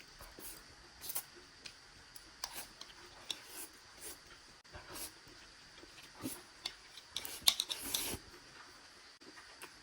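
Eating sounds: scattered light clicks and taps of chewing and utensils, busiest about seven to eight seconds in.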